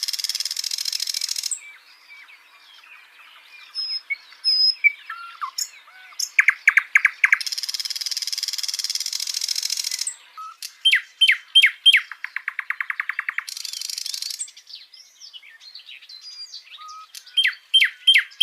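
A songbird singing varied phrases. Fast trills of sharp repeated notes alternate with harsh buzzy phrases a second or two long, with scattered chirps and whistles in between.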